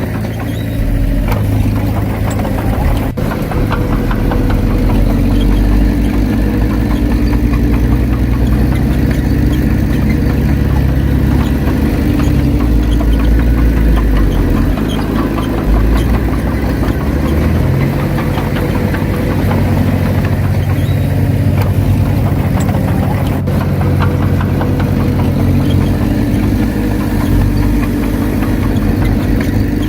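Komatsu D31P bulldozer's diesel engine running steadily while working, its pitch dipping and then rising again a little past halfway as the load changes.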